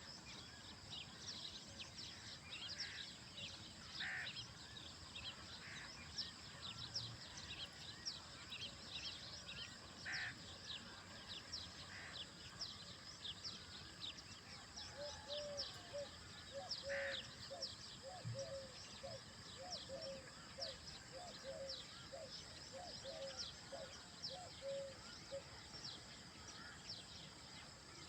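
Birds chirping, with short high chirps throughout. In the middle, a lower call repeats about once or twice a second for around ten seconds.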